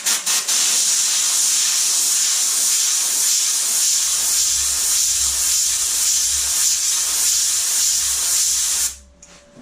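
Compressed air blowing in a steady loud hiss onto freshly welded door metal to cool it and keep heat from building up. It cuts off suddenly about nine seconds in.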